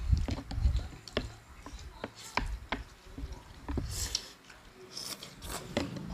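Close-up chewing and wet mouth clicks of someone eating soft, overcooked rice noodles, with two brief hissy sounds about four and five seconds in.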